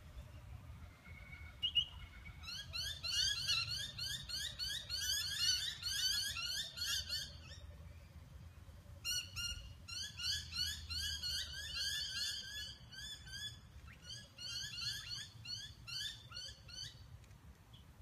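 Small birds chirping in quick runs of repeated, sliding notes, about three or four a second, with short breaks between the runs.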